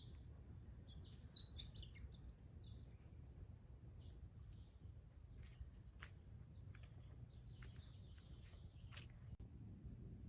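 Small birds chirping faintly, with scattered short high chirps over a steady low background rumble.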